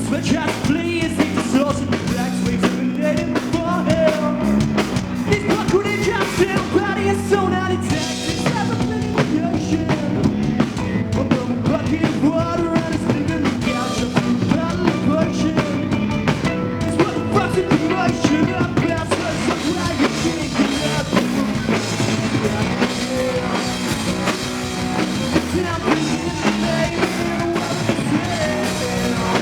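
A live rock band playing with drum kit, guitar and singing.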